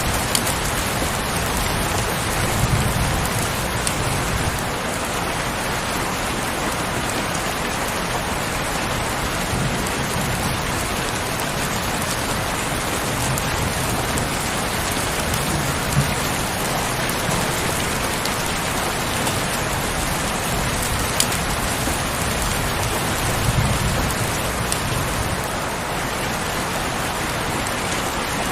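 Heavy rain falling steadily in a dense, even hiss, with a few sharp drop taps and occasional brief low rumbles.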